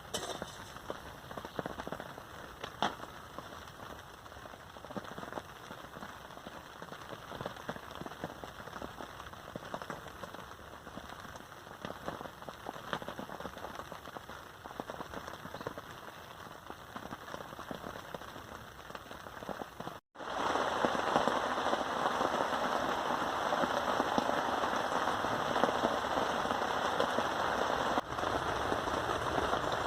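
Rain falling, with many separate drop hits close by. About twenty seconds in, the sound cuts out for an instant and the rain returns louder and denser.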